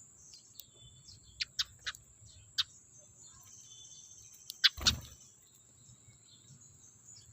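Sparrows chirping: a handful of short, sharp falling chirps, then a thump about five seconds in.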